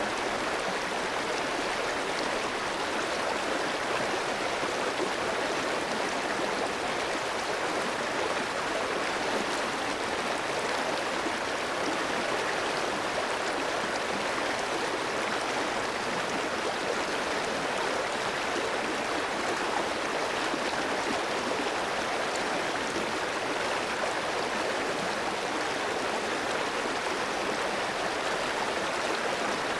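Clear shallow stream flowing over rocks: a steady, even rush of water.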